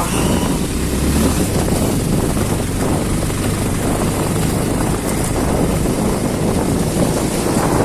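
Vehicle engine running steadily while riding an off-road track, with a dense, continuous rumble.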